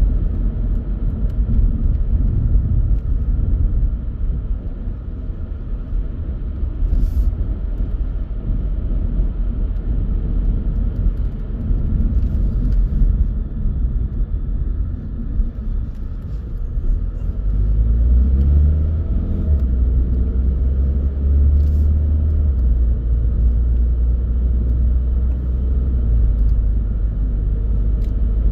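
A car driving along a country road: steady low engine and tyre rumble, which grows deeper and louder about two-thirds of the way through, with a few faint clicks.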